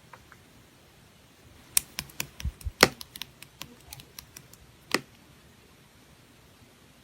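Slime being handled, giving a quick run of sharp clicks, about a dozen over three seconds starting near two seconds in, with a last louder click near five seconds.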